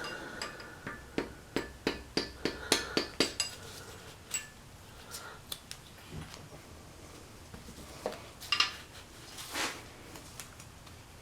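Metal hand tools tapping and clinking against a Saab 9000 engine block while a balance shaft is worked loose. A quick run of sharp taps, about three or four a second, lasts a few seconds, followed by a few scattered clinks and a short flurry of knocks.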